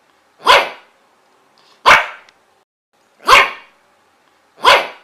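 A dog barking: four single, sharp barks, evenly spaced about a second and a half apart and each alike.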